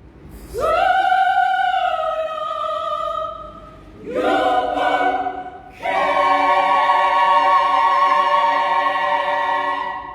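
Women's choir singing a cappella: three sustained chords, entering about half a second, four seconds and six seconds in, the last held long and released near the end.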